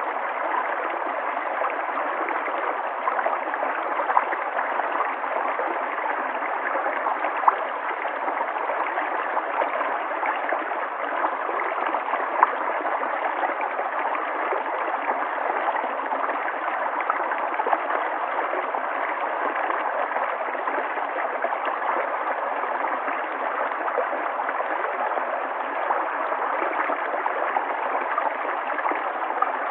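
River water flowing steadily over stones, a continuous rushing and gurgling with small splashes here and there.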